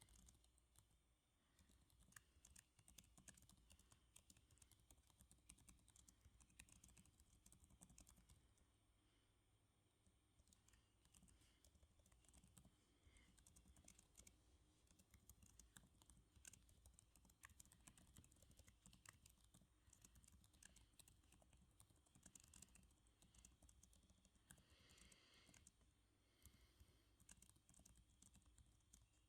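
Faint typing on a computer keyboard: quick, irregular key clicks in runs, thinning briefly near the middle.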